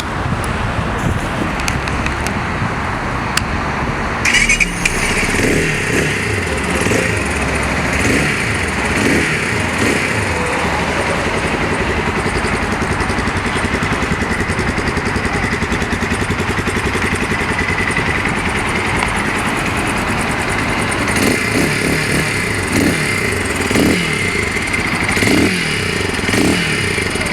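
Motorhead MH200X's 200cc air-cooled single-cylinder engine running and being revved in quick throttle blips about once a second. There is a run of blips after a sudden change about four seconds in, steadier running in the middle, and a second run of blips near the end.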